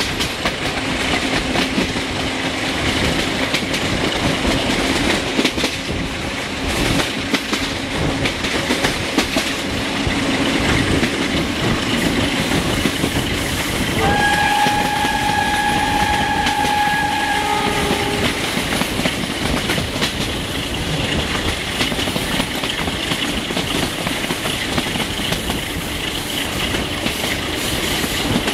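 Passenger train running at speed, heard through an open coach window: steady wheel and rail noise with clickety-clack. About halfway through, the 060-DA diesel-electric locomotive's horn sounds one long note of about three and a half seconds, ending with a brief lower note.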